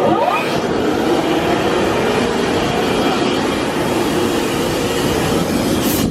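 Drive-through automatic car wash running: a loud, steady rushing noise of the wash machinery, with a brief rising whine as it starts up.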